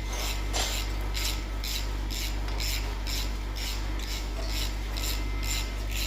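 Rhythmic scraping strokes of a hand tool on metal, about three a second, over a steady low hum.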